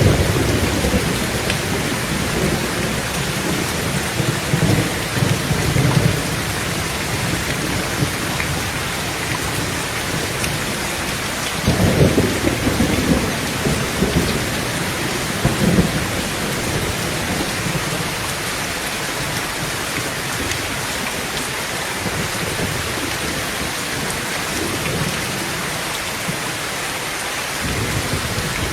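Heavy rain falling steadily on a tin tent roof, with thunder rumbling through the first few seconds, a louder rumble about twelve seconds in and a shorter one a few seconds later.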